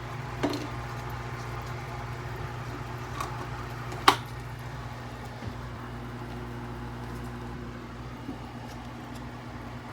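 A steady low hum with a few light clicks, then one sharp click about four seconds in, the loudest sound here.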